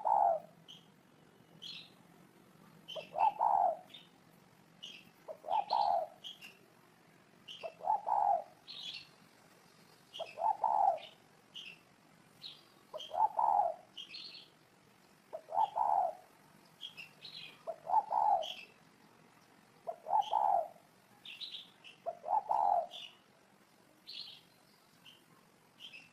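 Spotted dove cooing: about ten phrases at an even pace, one roughly every two and a half seconds. Short high chirps of small birds come between the coos.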